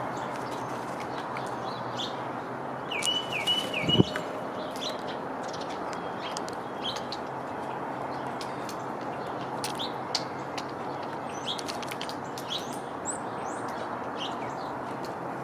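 Small songbirds chirping in short, scattered calls, with a quick run of chirps about three seconds in, over a steady outdoor background hiss. A single sharp knock about four seconds in, the loudest sound.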